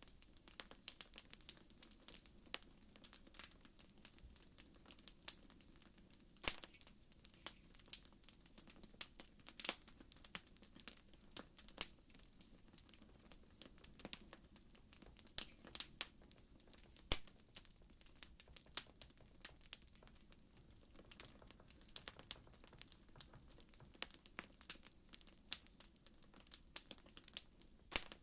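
Campfire crackling: irregular sharp pops and snaps, a few louder ones standing out, over a faint low rumble of the burning wood.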